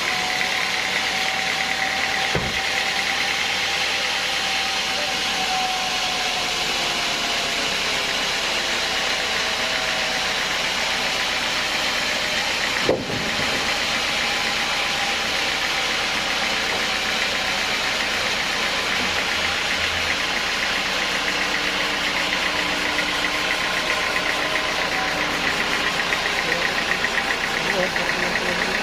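Engine-driven sawmill machinery running steadily, a constant drone with a faint steady whine over it. A single sharp knock stands out about halfway through.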